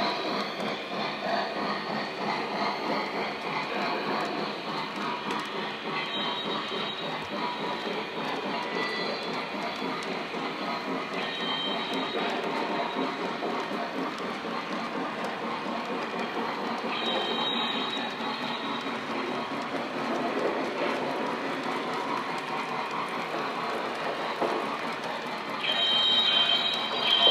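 Lionel model train running on its track: a steady rumble of wheels and motor, with short high squeals several times, the loudest near the end.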